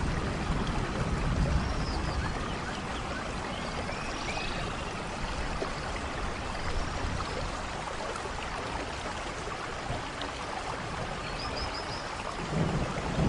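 Steady rain falling, an even patter and trickle, with a few faint high chirps over it. A low thunder rumble fades out at the start and another begins to build near the end.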